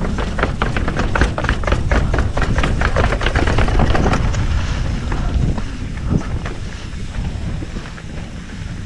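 Mountain bike rattling and clattering over a rough trail, with quick dense knocks that thin out after about five seconds, over heavy wind rumble on the microphone.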